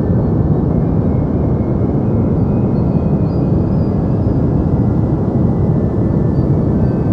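Deep white noise: a steady, even rush of noise weighted to the low end, with a few faint thin high tones drifting in and out.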